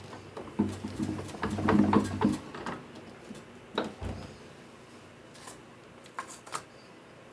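Scattered clicks and knocks of hand work at a workbench, busiest in a cluster between about half a second and three seconds in, then a few single clicks.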